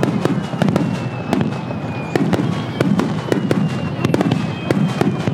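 Fireworks display in a dense barrage: many sharp cracks a second over a low rolling boom, with high whistling tones that fall slightly in pitch.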